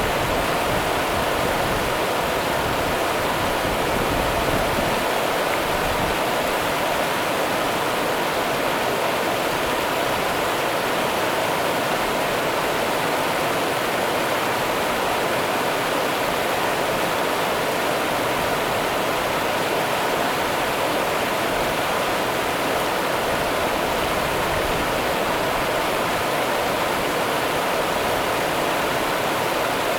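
Rio Grande river water running steadily, an even rush without breaks or changes.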